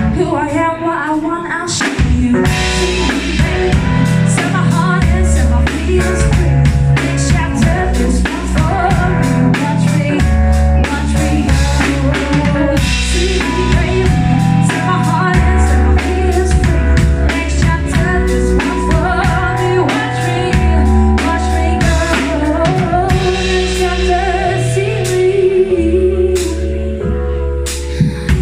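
Live band playing a song: drum kit keeping a steady beat, bass guitar and guitar, with a woman singing over them.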